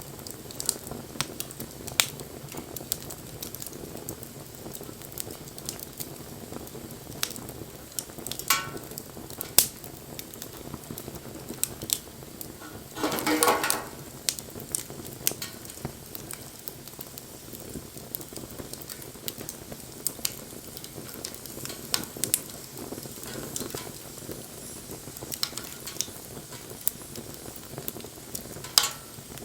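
Wood fire crackling and popping: sharp, irregular snaps over a steady hiss. About halfway through comes a louder, noisier burst lasting about a second.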